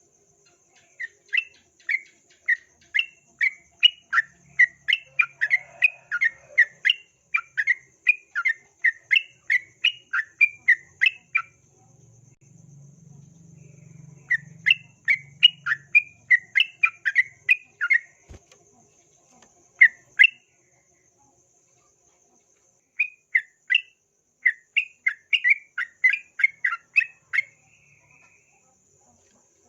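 Yellow-vented bulbul (trucukan) singing in rapid runs of short, bright chirping notes, about three a second, in three bursts with pauses between them.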